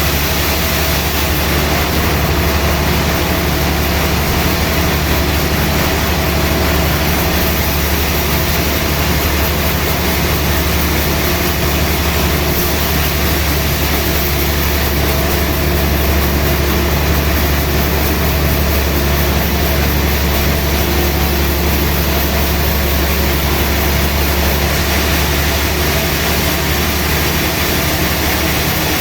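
Sawmill machinery running steadily and loudly, with no break or change in pitch.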